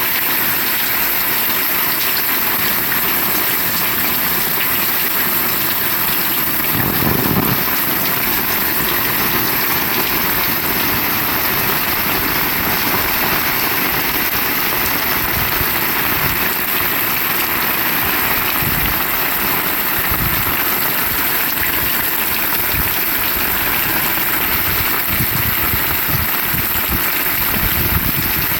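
Heavy rain falling steadily, a dense continuous hiss of rain, with a brief low rumble about seven seconds in.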